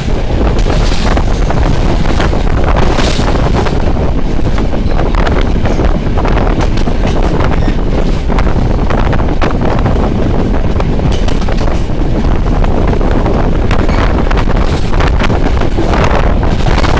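Wind buffeting the microphone at an open train window over the steady rumble of the moving train, with irregular clicks and knocks from the wheels and carriage.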